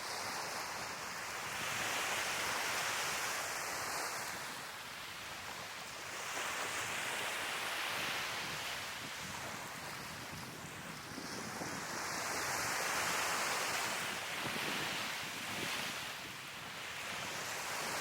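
Sea waves breaking and washing up on the shore, the surf swelling and fading in about four slow surges.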